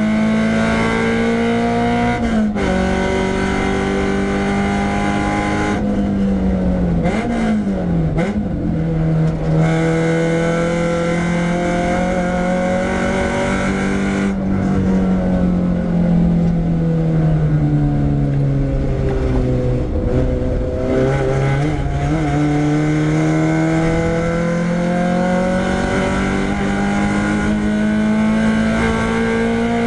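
Renault Clio 172's 2.0-litre four-cylinder engine being driven hard on track, revs rising and falling through the gears. The pitch drops about two and a half seconds in, dips and jumps quickly a few times around seven to eight seconds in, sags slowly through the middle, then climbs steadily for several seconds before falling sharply near the end.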